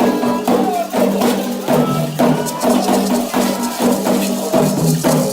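Candomblé ritual music calling Xangô: atabaque drums and rattling, clicking percussion keep a fast, steady rhythm while voices sing.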